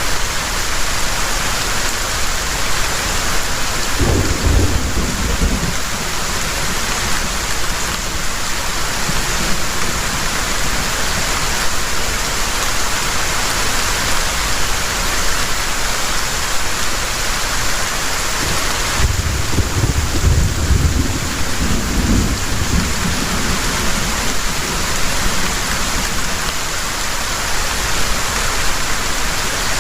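Heavy rain falling steadily, with thunder rumbling low twice: briefly about four seconds in, and longer from about nineteen seconds in.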